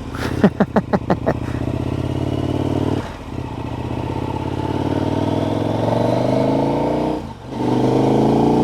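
KTM 1290 Super Adventure's V-twin engine pulling hard, rising in pitch through the gears with two brief shift breaks. It opens with a quick run of about six short pulses.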